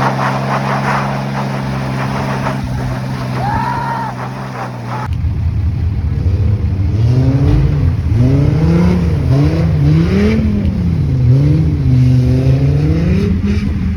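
Car engine running at steady revs, then, after an abrupt change about five seconds in, its revs rising and falling over and over in waves.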